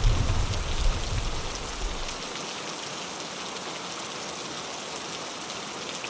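Steady rain falling on a window, with the tail of a thunder rumble dying away over the first two seconds.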